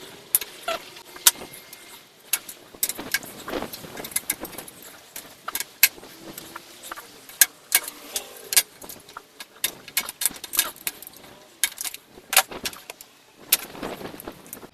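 Wire cutters snipping through the copper wiring harness of an old welder: a string of sharp, irregular clicks and small metallic clinks as wires are cut and handled.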